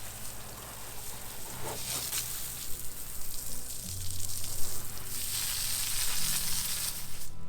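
Water spraying onto a pickup truck's body during a hand wash: a steady hiss that grows louder about four seconds in and cuts off suddenly near the end.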